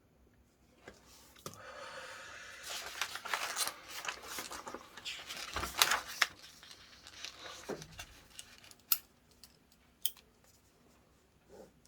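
Paper rustling and crinkling as it is handled for several seconds, followed by a few separate sharp clicks.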